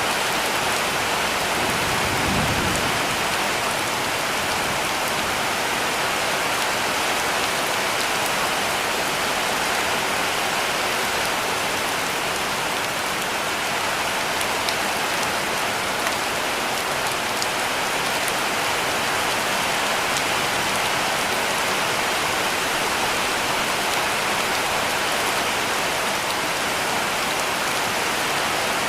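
Heavy rain falling steadily on a cabin roof, an even dense patter with a few sharper drip ticks. A brief low rumble sounds about two seconds in.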